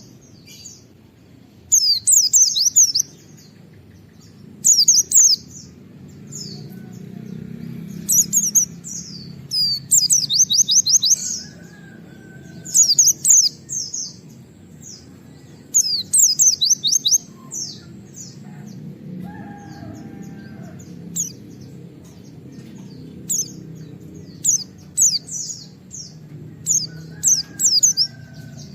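A white-eye (pleci) singing short bursts of rapid, high, sharply falling 'wit-wit' notes, each burst under a second long and repeated every two to three seconds. A steady low background noise runs underneath.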